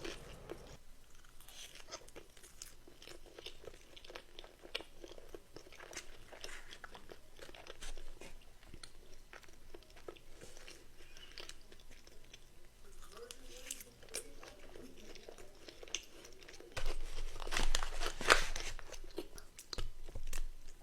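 Close-up chewing of crunchy food, many small crisp crunches and mouth clicks. A louder run of crunchy bites comes near the end.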